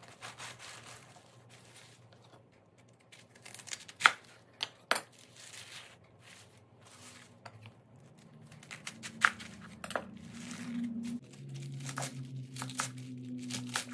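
Napa cabbage being pulled apart and cut with a kitchen knife on a wooden cutting board: crisp leaf tearing and crunching, with scattered sharp knocks as the blade meets the board.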